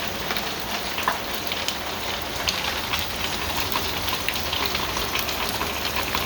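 Steady rain falling, with many separate drops ticking throughout.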